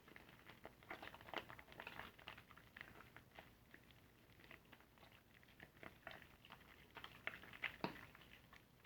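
Soapy car sponge being worked by hand: faint, irregular wet squishes and crackles of lather, with one louder squelch near the end.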